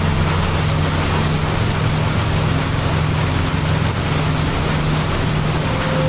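Steady heavy rain, mixed with a deep, even rumble of brown noise underneath.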